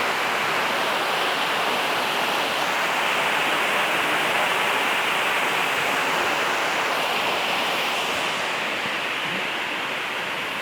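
Waterfall rushing: a steady, loud roar of falling water that eases slightly near the end.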